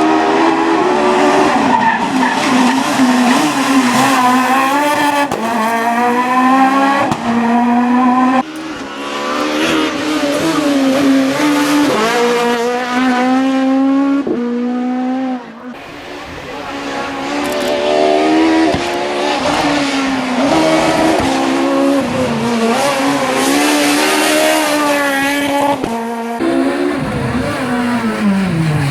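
Super 1600 rally car engines revving hard, their pitch climbing and dropping over and over through quick gear changes, in several passes one after another.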